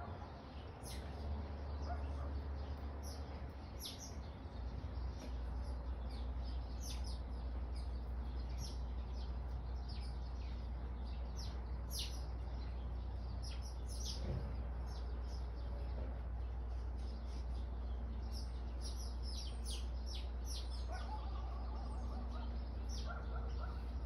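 Sparrows chirping: a dense run of short, high chirps that fall in pitch, coming one after another, over a steady low rumble.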